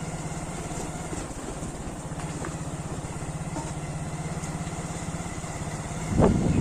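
Motorcycle engine running steadily at low revs with a fast, even firing beat. About six seconds in, loud wind buffeting on the microphone rises over it.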